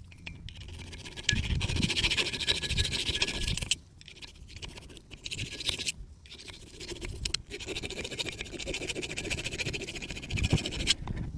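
Rapid scraping, in three bouts of a few seconds each with short breaks between, stopping suddenly near the end.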